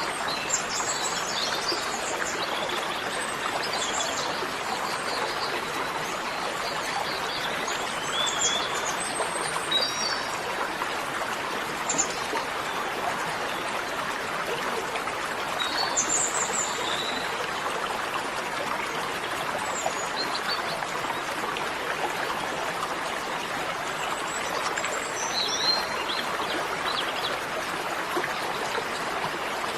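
Water running steadily, like a stream, with short high bird chirps scattered throughout.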